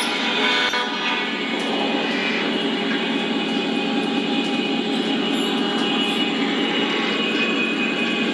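O-scale model diesel locomotives running on the track. Their onboard sound systems play a steady diesel engine drone over the rolling of wheels on rail.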